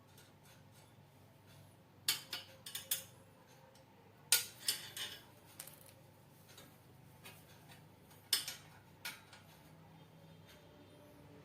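Small hard parts being handled during assembly of a homemade grinder: several sharp clicks and clinks in short clusters, over a low steady hum.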